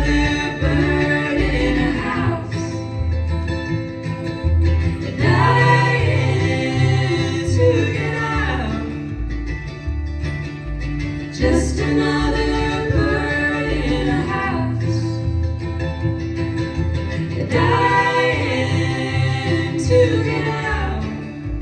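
Live bluegrass band: a woman singing over acoustic guitar, mandolin and bass, with sung phrases starting about every six seconds.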